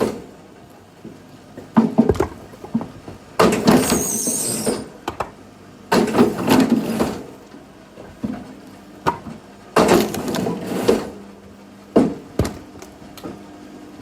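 Firewood being chopped and handled: sharp wooden knocks and clusters of clattering wood a few seconds apart.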